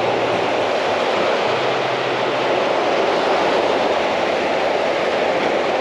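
Steady rush of sea surf washing on a beach.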